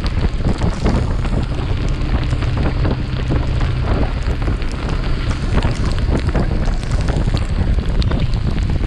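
Wind buffeting the microphone of a chest-mounted action camera on a moving motorcycle, with the Yamaha FZS V3's single-cylinder engine humming steadily underneath. The engine hum is plain for the first four seconds and less distinct after that.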